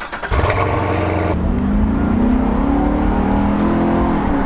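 Corvette Stingray's V8 engine pulling under acceleration: a loud, deep exhaust note whose pitch climbs steadily, dipping once near the end.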